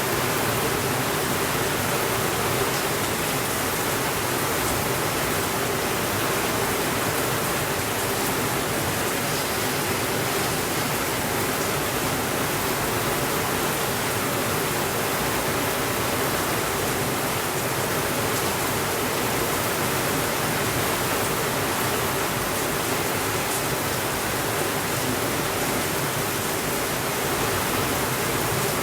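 Steady, even rainfall hissing without a break, with a few faint ticks scattered through it.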